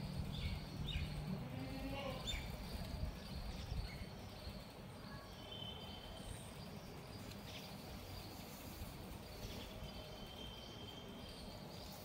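Small birds chirping: a few quick high chirps in the first two seconds, then short, even high trills twice, over a steady low background rumble.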